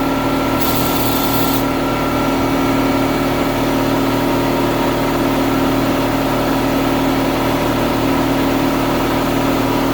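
Air compressor running steadily with a constant hum, while a Harbor Freight sandblast cabinet's blast gun fires a burst of hissing air that stops about a second and a half in.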